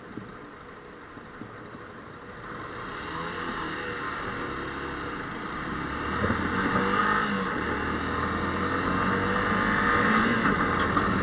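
Motorcycle pulling away from a stop and gathering speed, its engine note and rushing noise building steadily from about two and a half seconds in.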